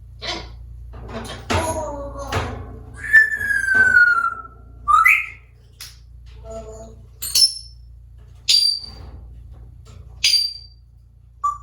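African grey parrot whistling and calling: a run of short calls, a long falling whistle about three seconds in, a short rising whistle, then a few sharp high chirps.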